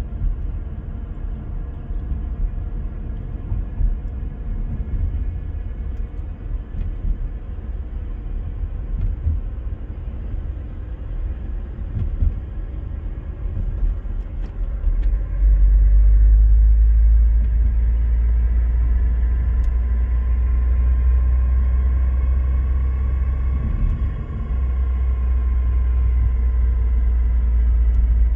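Car driving at speed with steady road and drivetrain rumble; about halfway a louder low drone sets in, and a whine swells and fades over several seconds. This is the running noise blamed on the M32 six-speed manual gearbox, a unit known for bearing wear.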